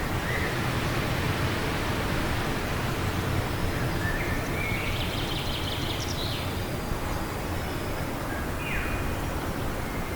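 Steady wind noise with a few faint bird calls over it: a short call right at the start, a run of chirps between about four and six and a half seconds in, and a falling call near the end.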